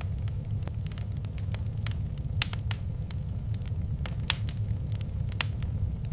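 Wood fire crackling in a fireplace, with scattered sharp pops, the loudest about two and a half, four and a quarter and five and a half seconds in, over a steady low rumble.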